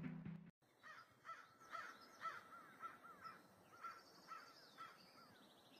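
Faint bird calls: a short call repeated about twice a second for several seconds, after the last of the music dies away in the first half-second.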